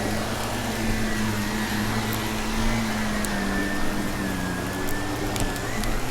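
Vacuum cleaner running steadily, its motor humming under a high whine, with a few brief clicks of crunchy debris being sucked up.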